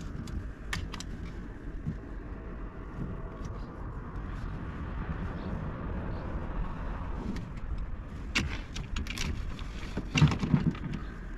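Gear being handled while a kayak is rigged: scattered clicks and taps of plastic and metal fittings, with a cluster of louder knocks about ten seconds in, over a steady low rumble.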